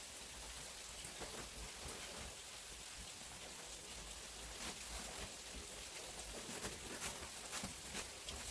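Steady rain falling during a thunderstorm: a soft, even hiss with scattered faint drop ticks.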